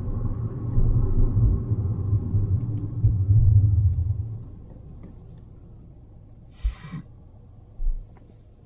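Low rumble of a car driving, heard from inside the cabin, which drops away about four seconds in. Later comes a brief hiss and a couple of soft thumps.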